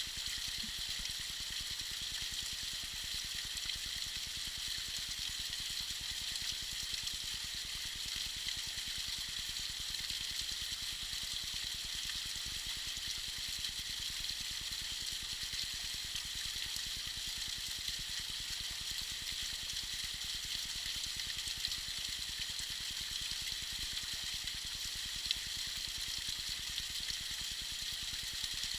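Small waterfall trickling and splashing in a steady high hiss, with a faint tick or two.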